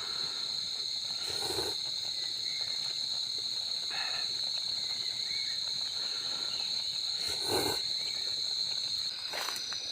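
Steady high-pitched chirring of crickets and other insects, with two short, louder animal-like sounds about a second and a half in and again near the end.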